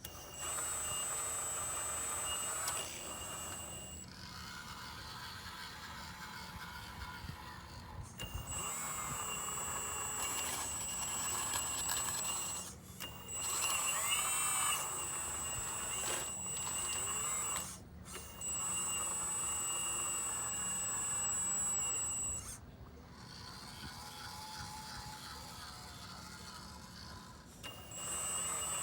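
Hydraulic pump of a Magom HRC CAT 330D model excavator whining in spells of a few seconds as the controls are worked, with quieter running between spells. The spells come about half a second in, at about 8, 13, 18 and 28 seconds, and each stops abruptly.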